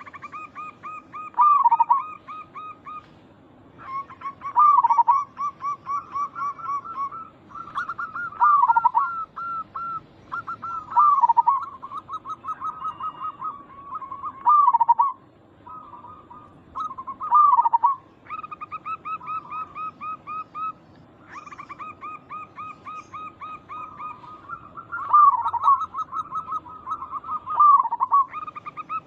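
Zebra doves (perkutut) cooing: fast trains of short, clipped notes, broken every few seconds by a louder coo that falls in pitch.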